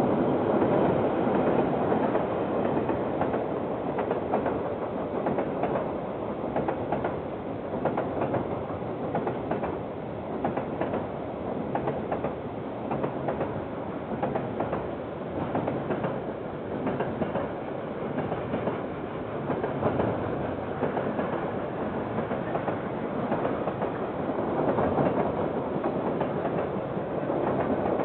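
KiwiRail train wagons rolling past on the rails, their wheels clicking over the rail joints in a continuous clatter.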